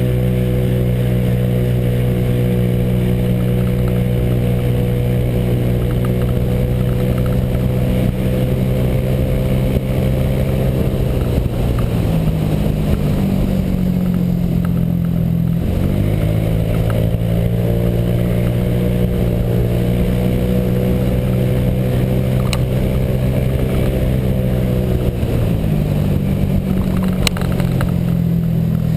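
Honda PCX scooter's single-cylinder four-stroke engine running under load while being ridden, fitted with a J.Costa variator. The engine holds a near-steady pitch, dipping and picking up again a few times.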